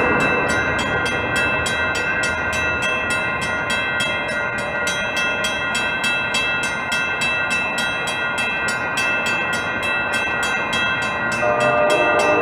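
Train passing, with a fast, regular ringing rhythm and steady high tones over the rail noise; a new set of lower tones comes in near the end.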